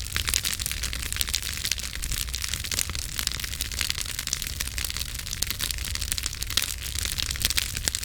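Campfire burning, wood crackling and popping in a steady stream of small snaps over a low rumble of the flames.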